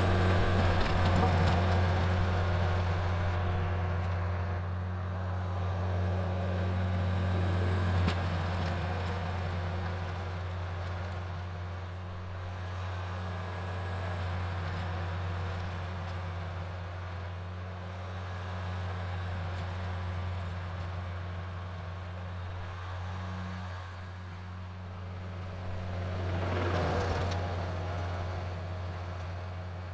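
Kubota L4701 tractor's four-cylinder diesel engine running steadily while driving a rototiller, a constant low hum with the churn of the tiller over it. It swells louder briefly near the start and again near the end, with one sharp tick about 8 seconds in.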